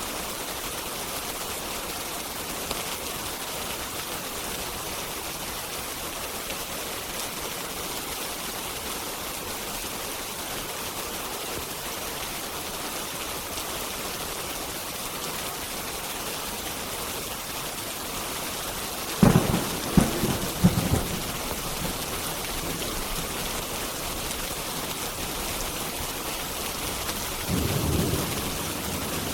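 Steady rain with a thunderclap about two-thirds of the way through: several sharp cracks in quick succession, then a softer low rumble near the end.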